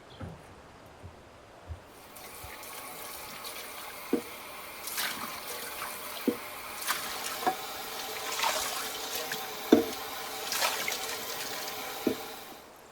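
Water running for about ten seconds, starting a couple of seconds in and stopping near the end, with several sharp knocks of hard objects on top.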